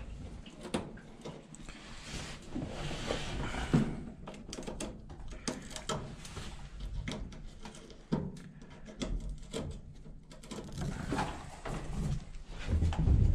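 Scattered clicks, knocks and rubbing of hands working with washing-machine inlet hoses and their plastic fittings, with a few sharper knocks and a stretch of soft hissing.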